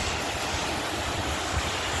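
Heavy rain pouring, a steady hiss, with wind buffeting the phone's microphone in a low, uneven rumble.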